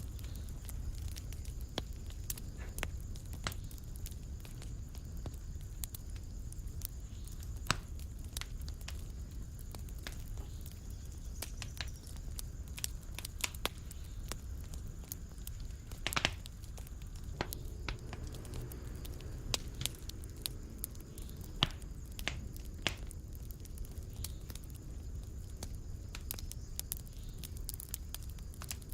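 Fire in a fireplace crackling: a steady low rumble of flames with irregular sharp pops, one louder pop about halfway through.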